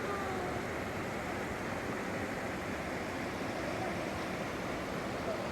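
Steady rushing of a flooded river's water.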